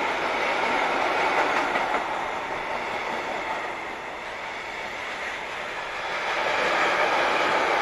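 Container freight train's wagons rolling past on the rails with a steady rumble and rattle of wheels, easing a little in the middle and growing louder again near the end.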